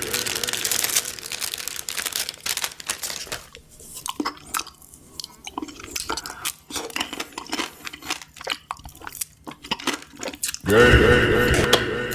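Crispy fried chicken being bitten and chewed: loud, irregular crunching and crackling of the fried coating. About ten and a half seconds in, a loud, steady pitched sound cuts in over it.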